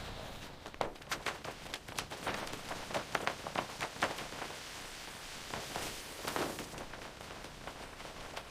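An irregular run of sharp clicks and knocks, several a second, over a faint hiss.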